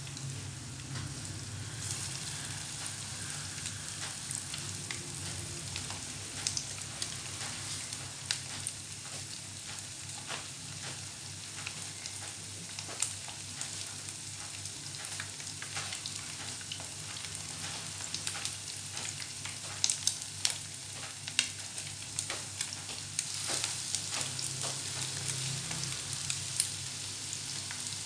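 Hot oil sizzling in a frying pan around floured potato balls as they shallow-fry, with frequent sharp pops and crackles. A cluster of louder pops comes about twenty seconds in.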